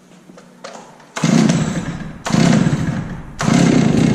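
Two-stroke chainsaw without a decompression switch being pull-started on full choke: three hard pulls of the starter cord, each with a loud burst of the engine, starting about a second in. The engine fires briefly without running on, which on full choke is the sign to push the choke back in.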